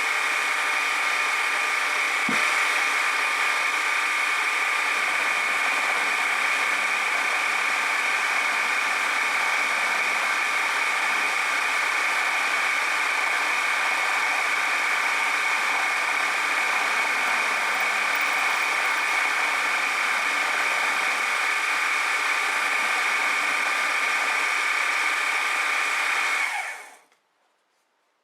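Milling machine running steadily with a high whine as its cutter machines a tooth into a gear blank on a rotary table, then switched off about a second before the end, the sound dropping away quickly.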